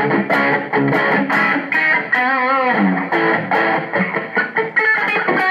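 Electric guitar played through a Zoom G3Xn multi-effects pedal with a little delay: quick repeated picked chords and notes, with one note held and wavering with vibrato about two seconds in.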